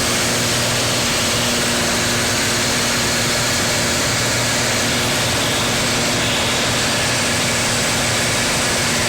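Steady engine drone and rushing noise inside a small airplane's cabin in flight, with a constant low hum that does not change.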